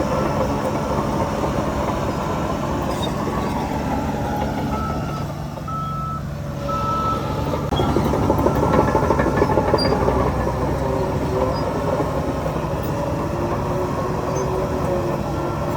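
Heavy construction machinery running, with a reversing alarm beeping at a steady rate over the engine. About eight seconds in, the machinery suddenly grows louder and rougher.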